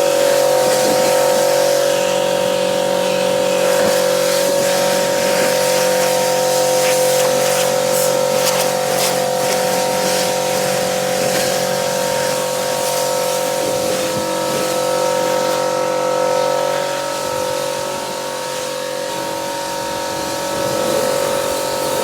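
Pressure washer running and spraying: a steady pitched hum from the machine over the hiss of the water jet.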